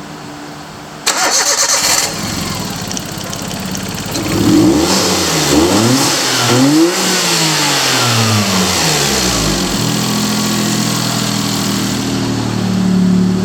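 Suzuki Kei (HN22S) K6A three-cylinder engine cranked on the starter for about a second until it catches, then revved up and down several times before it settles to a steady idle.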